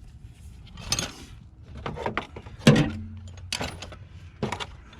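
Hand tools being handled and set down after work in an engine bay: a series of short knocks and rattles about a second apart, the loudest near the middle.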